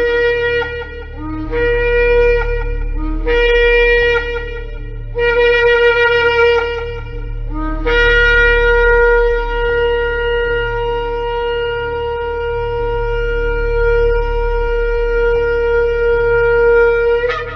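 Shofar (ram's-horn trumpet) blowing four short blasts, each stepping up from a lower note to a higher one. Then comes one long held blast of about nine seconds that ends with a brief upward flip.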